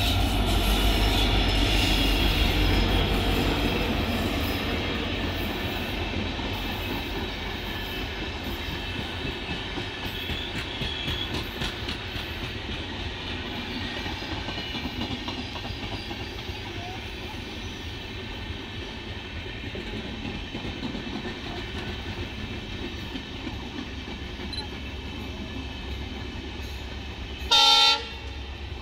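Indian Railways WDP-4D diesel locomotive passing close by, loudest in the first few seconds. It is followed by the long steady rumble and wheel clatter of LHB passenger coaches rolling past. Near the end comes one short, loud locomotive horn blast, from the oncoming train's locomotive.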